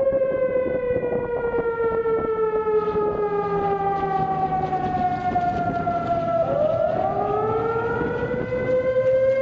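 Air-raid siren wailing: a long falling tone that sweeps back up quickly about two-thirds of the way through, then holds steady.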